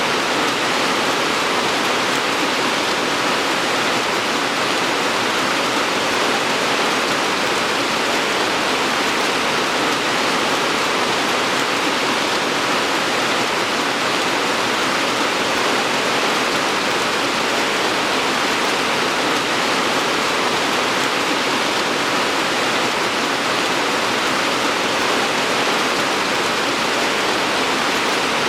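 Steady rain falling, an even hiss without distinct drops.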